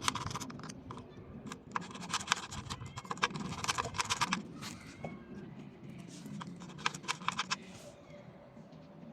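Several short bursts of rapid, light clicking, each lasting a second or less, with the longest run about three to four seconds in.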